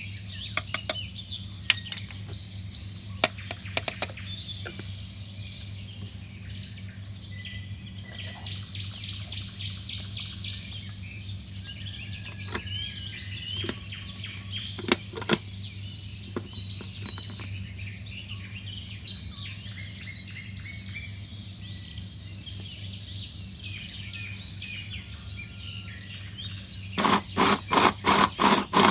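Small birds chirping and twittering over a steady low hum, with a few scattered clicks. Near the end a rapid run of loud, regular knocks comes in, about three or four a second.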